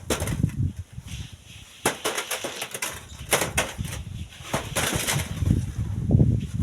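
Strong gusting wind buffeting the microphone in irregular low rumbles, with a few sharp crackles or knocks scattered through it.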